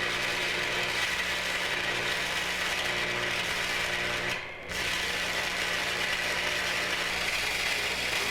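A machine running with a steady mechanical rattle and hum, breaking off briefly a little past halfway before running on.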